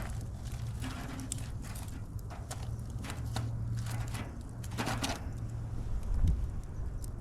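Wood fire crackling: irregular sharp pops and snaps over a steady low rumble, with a low thud about six seconds in.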